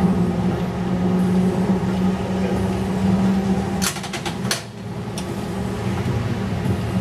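Replica 1920s-style streetcar running, its electric drive giving a steady hum. About four seconds in the hum drops out and a quick run of sharp clicks follows, then a lower rumble carries on.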